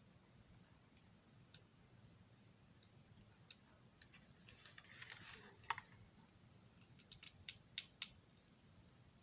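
Small parts being handled at a workbench: a soft brief rustle about five seconds in, then a quick run of small sharp clicks and ticks near the end.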